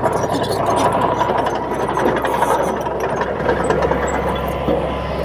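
Bulldozer diesel engine running steadily, with faint metallic clicking over it.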